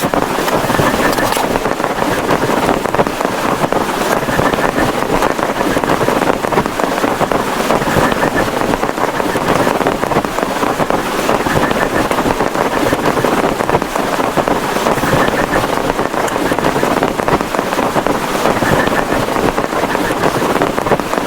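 Heavy rain drumming steadily on a plastic tarpaulin, a dense patter of countless drops, with wind.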